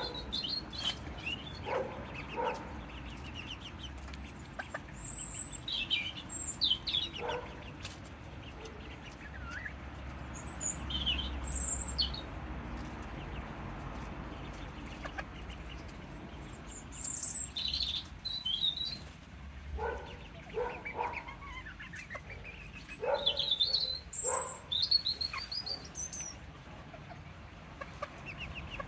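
Serama bantam chickens clucking on and off, with a busier run of clucks about two-thirds of the way through, and short high bird chirps mixed in.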